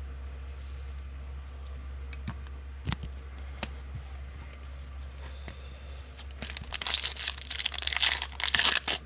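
Foil trading-card pack wrapper being torn open and crinkled: a few light clicks, then loud crackling tearing from about six seconds in.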